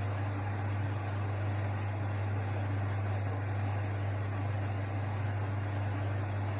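AEG Lavamat L62850L washing machine running, a steady hum with an even whirring noise over it.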